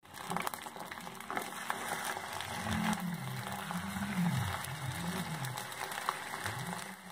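Chicken pieces sizzling in hot oil in a clay kadai, a steady hiss with scattered small crackles.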